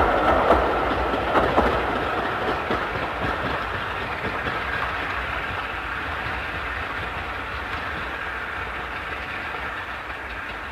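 A British Rail Class 46 diesel's ten-coach train pulling out and drawing away. A few wheel clicks over rail joints come early, then the rolling rumble fades steadily as the train recedes.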